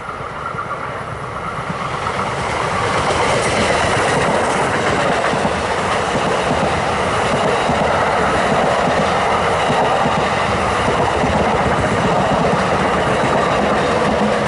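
NJ Transit double-deck commuter train passing close by, the rumble and clatter of its wheels on the rails building over the first few seconds and then holding steady as the coaches go by.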